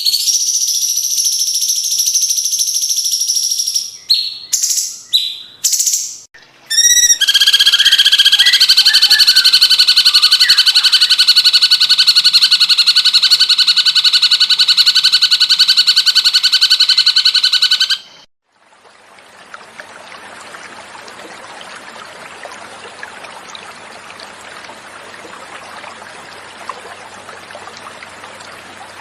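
Cucak cungkok song: loud, high trilling phrases, a few short notes, then a long, rapid, continuous trill that cuts off suddenly about two-thirds of the way through. After a brief gap, steady, quieter running water follows.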